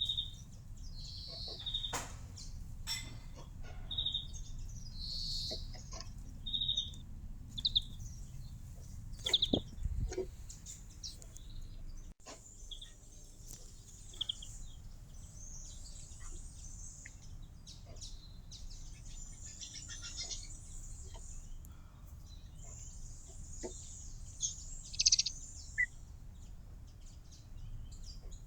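Small birds chirping: a short high chirp repeated about once a second, then busier, scratchier twittering after an abrupt change about halfway through, with a louder flurry of calls near the end, over a steady low background hiss.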